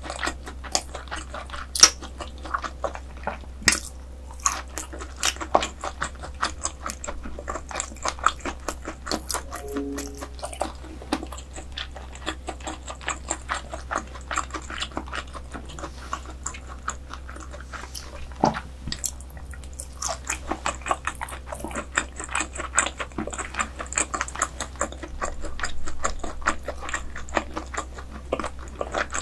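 Close-miked chewing of croaker dishes: a steady stream of wet, sticky mouth clicks and smacks, with one sharper click about eighteen seconds in.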